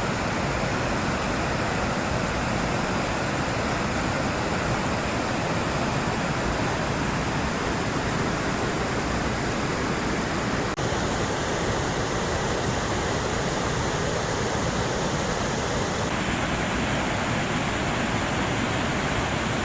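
Whitewater of Dillon Falls on the Rogue River rushing steadily, heard close up as a dense, unbroken noise. Its tone shifts slightly about eleven seconds in.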